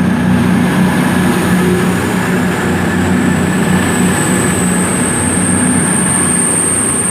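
CrossCountry Voyager diesel multiple unit (class 220/221) pulling out under power, its underfloor diesel engines giving a steady low drone. A thin high whine comes in about four seconds in and holds.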